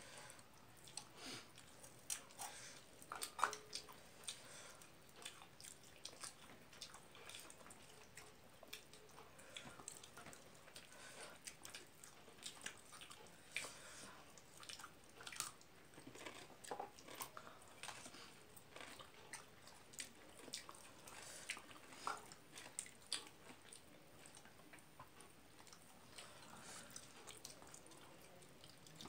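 A person eating rice and egg curry with the fingers: faint, wet chewing and mouth sounds with many small scattered clicks.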